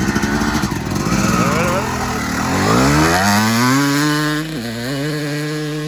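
Motorcycle engine accelerating hard under heavy throttle: the engine note climbs steeply a couple of seconds in, holds high, dips briefly once as if shifting, then holds again.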